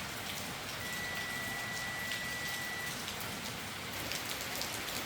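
Steady rain falling in a storm, an even hiss with individual drops ticking. A thin, steady high tone sounds over it from about one second in to about three seconds in.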